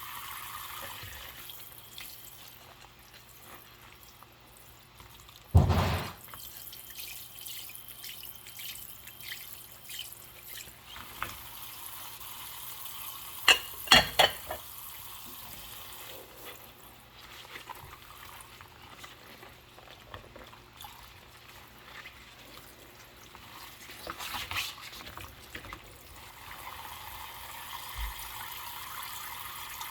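Dishes being washed by hand at a sink: tap water runs at the start and again near the end. In between, dishes are knocked and clinked, with a heavy knock about six seconds in and a few sharp clinks around fourteen seconds.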